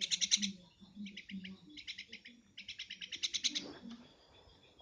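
Javan myna calling in several quick bouts of rapid, repeated high chattering notes.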